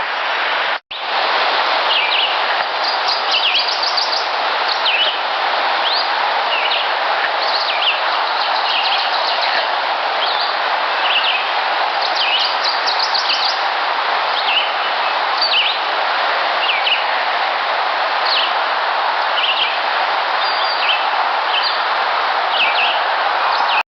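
Loud, steady hiss of an amplified outdoor field recording, with small birds chirping over and over throughout. The sound drops out briefly about a second in.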